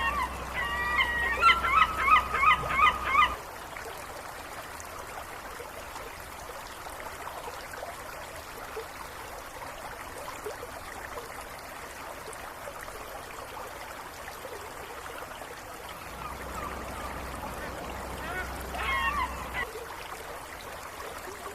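Waterfowl calling in a rapid series of short pitched calls, about three a second, for the first three seconds, then again briefly near the end, over a steady soft hiss of water ambience.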